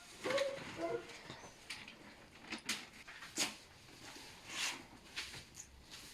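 Tinsel garland crinkling and rustling as it is handled, with irregular crackles and clicks spaced over several seconds. A brief vocal sound comes within the first second.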